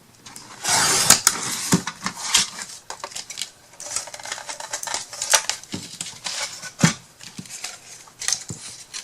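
Paper and small craft tools handled on a tabletop: rustling, with an irregular run of sharp clicks and taps.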